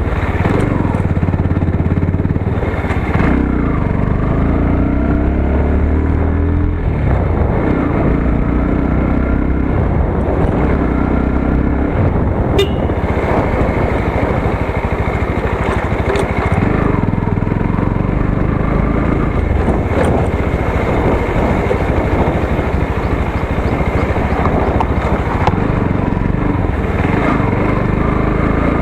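Motorcycle engine running while riding, its pitch rising and falling several times as the throttle opens and closes through the gears.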